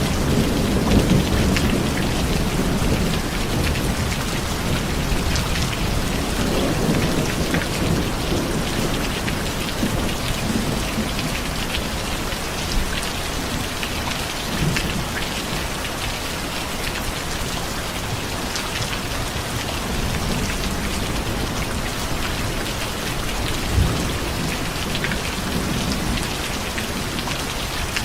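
Steady heavy rain pattering on a surface, with a low rumble of thunder in the first few seconds and a few sharper, louder taps later on.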